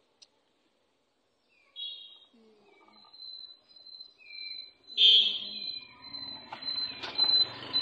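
Near silence at first, then short high bird chirps and calls over a thin, steady high tone, the loudest chirps about five seconds in. A low, noisy background builds up near the end.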